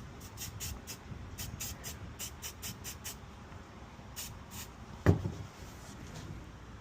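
Spray paint can shaken in quick bursts, its mixing ball rattling in rapid clicks about four or five a second, then a single loud thump about five seconds in.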